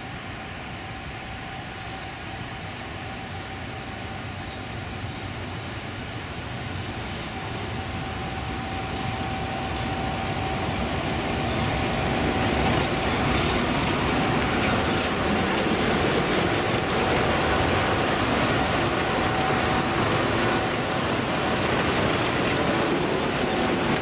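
FS E 646 electric locomotive and its train of coaches rolling slowly along a station platform, growing louder as it nears and passes close by, with a steady high tone running through the rumble of the wheels.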